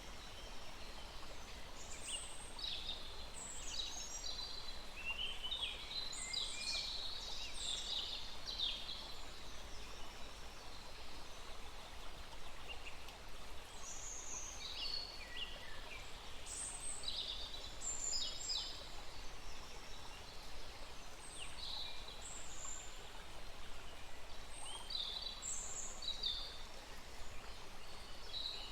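Several small birds singing and calling in scattered bursts of high chirps and short trills, over the steady hiss of a small stream.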